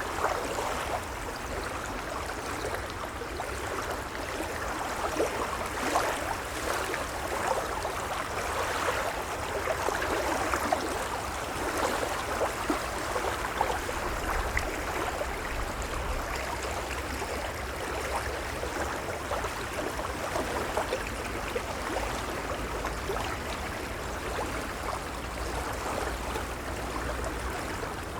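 Gentle waves washing steadily, an even crackling wash of water with a low rumble underneath.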